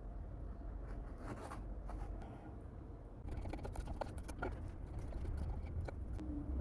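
Scattered light clicks and scraping over a low steady rumble, busiest about a second in and again from about three seconds in.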